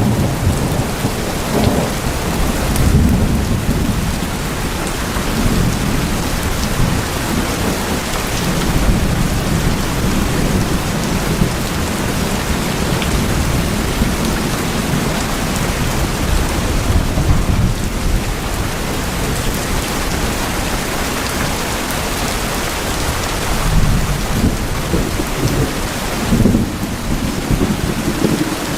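Steady, dense rain falling on tin roofs, with a continuous low rumble under the patter and small swells in strength.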